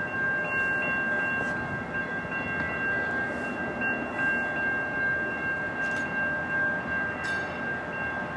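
A train at the station, a low rumble under a steady high-pitched whine that holds an even pitch throughout.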